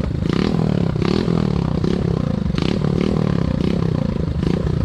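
Motorcycle engine revving in repeated surges, its pitch rising and falling several times, with clattering noise over it.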